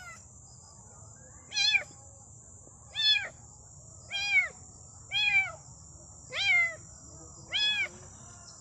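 Kitten meowing over and over, six short rising-and-falling cries about a second apart: the steady crying of a kitten left on its own without its mother.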